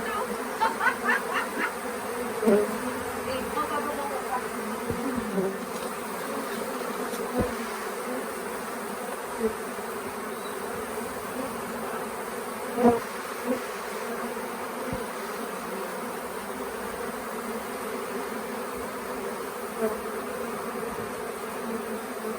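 Steady, dense buzzing of a honey bee swarm in flight, the swarm lifting off the nuc box again. A few brief sharp knocks stand out over the hum.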